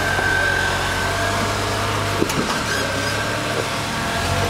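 Jeep Cherokee XJ's engine running at low revs, a steady low drone that eases off for about two seconds past the middle and comes back near the end.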